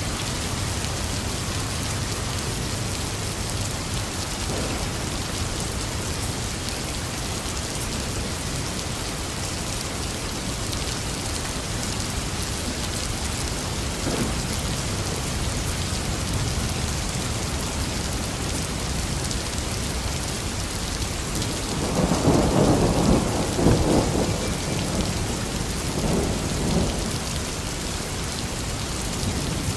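Steady rain falling, with thunder: a loud rumble swells about two-thirds of the way through and lasts a few seconds, with fainter rumbles before and after.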